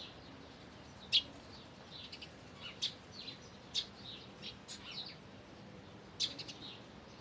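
Songbirds chirping: short high chirps and brief call notes scattered irregularly, one to two every second, over a faint steady background.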